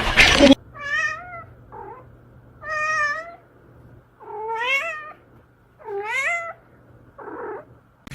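A cat meowing repeatedly: four drawn-out meows about a second and a half apart, the later ones rising in pitch, with two shorter, softer calls between them.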